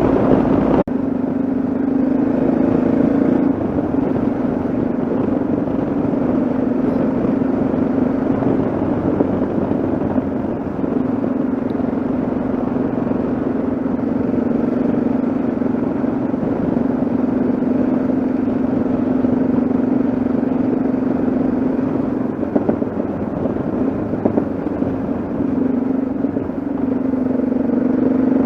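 Yamaha XT 660Z Ténéré's single-cylinder four-stroke engine running steadily under way at a fairly even speed, with road and wind noise.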